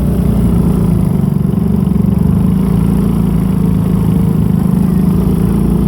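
Bumper boat's small engine running steadily, a constant low hum.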